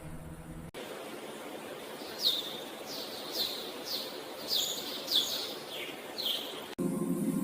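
A bird calling about eight times in quick succession, each call a short high note sliding down in pitch, over a steady outdoor hiss. Music plays briefly at the very start and end.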